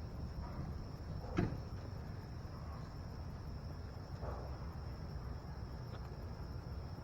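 Steady high-pitched insect chirring, typical of crickets, over a low rumble, with a single knock about one and a half seconds in.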